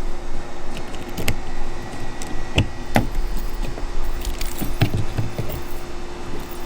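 Metal clinking and rattling of hardware being handled, with a few sharp knocks, over a steady low hum.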